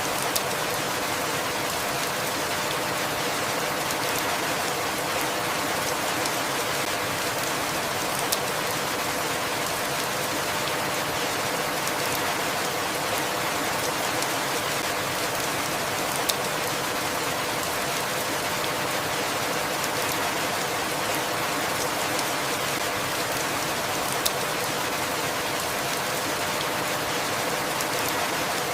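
Steady, even rainfall, with a sharp single tick about every eight seconds, like a drop landing close by.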